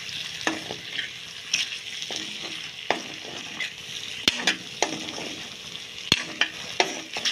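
Chopped tomatoes and onion frying in hot oil with a steady sizzle, stirred with a metal spatula that clicks and scrapes irregularly against the pan.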